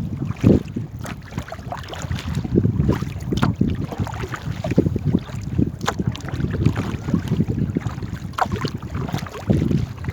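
Paddles splashing and dipping irregularly in the water around a small paddled boat, with wind buffeting the microphone.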